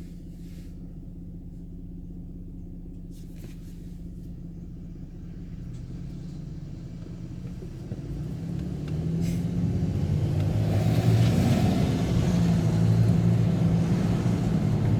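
Motor vehicle driving: a steady low engine hum and road noise that build up from about halfway through and get much louder near the end, as the vehicle speeds up.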